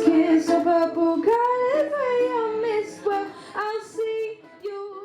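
Singing: a high voice holding wordless notes that slide from one pitch to the next, the last phrase of a song. It grows quieter and breaks into shorter notes toward the end.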